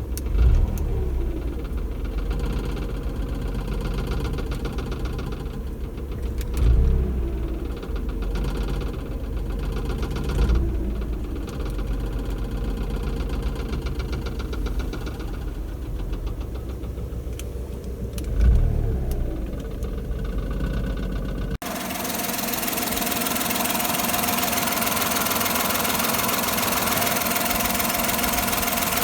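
Suzuki Wagon R's three-cylinder kei engine running with a clattering rattle from the air intake duct, which shakes loose because both of its plastic push-rivet fixing clips have broken off. A few louder low thumps come through in the first twenty seconds. About twenty-one seconds in, the sound changes suddenly to a louder, brighter, hissier noise.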